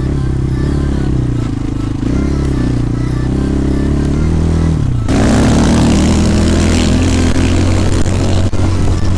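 A 250cc single-cylinder enduro motorcycle engine running under the rider, its pitch rising and falling with the throttle. About five seconds in it gets louder, with a rushing noise over it.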